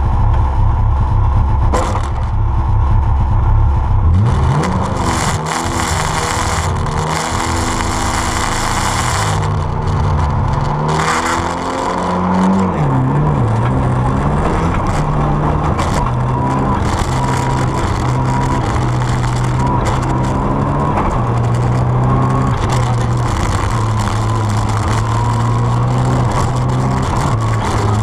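Rally car engine heard from inside the cabin: revving hard for the first few seconds, then accelerating with its pitch climbing and dropping back several times, before settling into a steadier high-revving run with small shifts in pitch.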